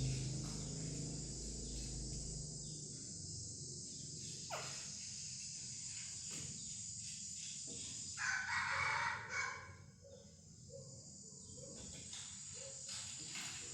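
A rooster crowing once, a little over a second long, about eight seconds in, over a steady high insect drone. A low hum fades out in the first few seconds.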